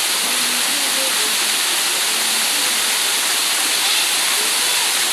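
Waterfall, falling water rushing in a steady, unbroken noise.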